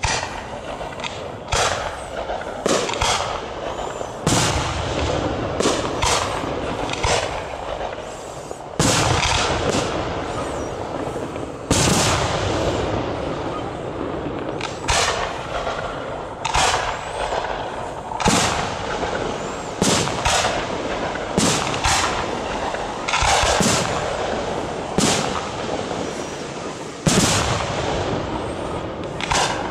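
Fireworks display: aerial shells bursting in a rapid series of loud bangs, one every one to two seconds, each trailing off before the next.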